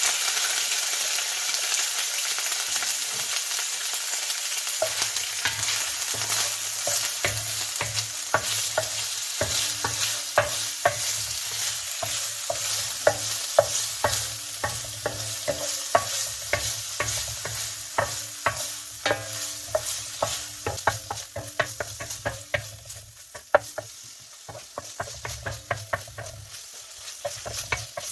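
Shrimp and squid pieces sizzling in hot oil in a frying pan, with a utensil stirring and tapping against the pan. The sizzle is loudest at first and dies down toward the end.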